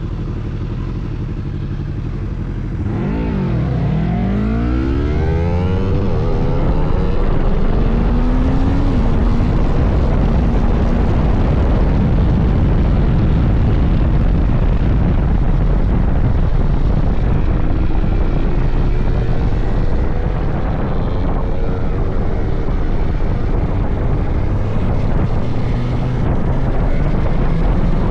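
Suzuki GSX-S1000GT's inline-four engine running at low steady revs, then dipping and climbing sharply about three seconds in as the bike accelerates. After that it runs on at speed under heavy wind noise.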